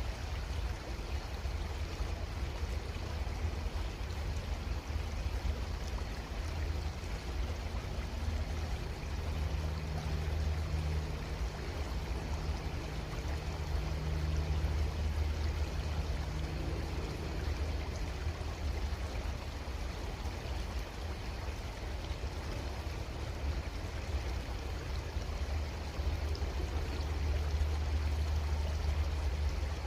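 Creek water flowing steadily, with a strong low rumble underneath and a faint steady hum for several seconds in the middle.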